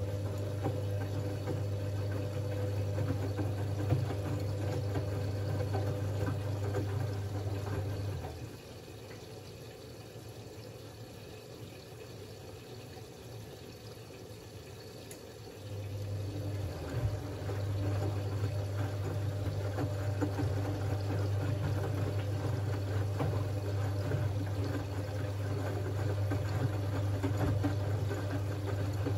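Siemens Siwamat 6143 washing machine drum turning through its wash water, with a steady motor hum and sloshing. It stops about eight seconds in, pauses for several seconds, then starts turning again, the stop-and-reverse rhythm of the wash cycle.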